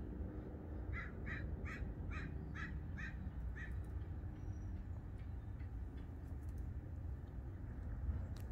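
A bird calling: a quick, even run of about seven calls, roughly three a second, starting about a second in and stopping before the middle, over a steady low rumble.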